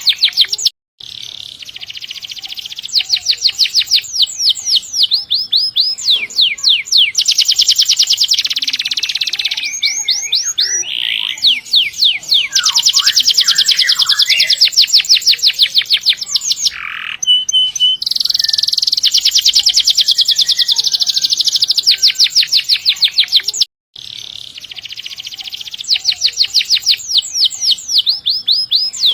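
Domestic canary singing long rolling trills: fast runs of rapidly repeated high notes, some sweeping up or down, in a loud, continuous song. The song cuts out briefly twice, about a second in and near the end.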